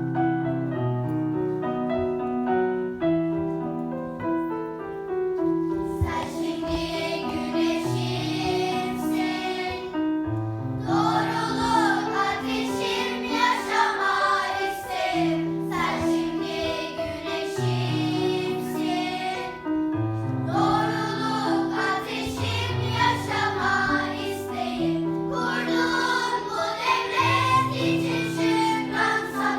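Piano playing alone, then children singing together with the piano from about six seconds in, in phrases separated by short pauses.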